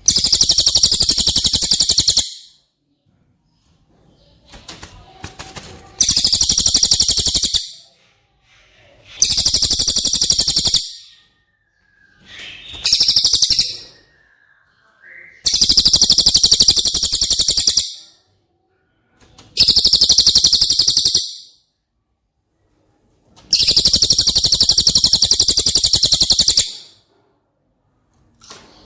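Cililin bird singing in seven loud bursts of very rapid, buzzy high-pitched trills, each lasting one to three seconds, with short pauses between them.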